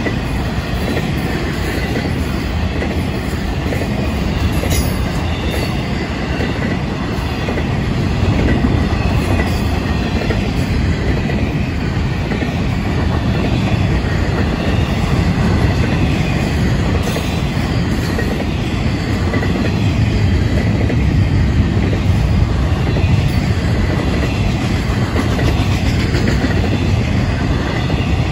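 Intermodal freight train's cars rolling past at close range: a steady rumble of steel wheels on rail, growing a little louder about eight seconds in.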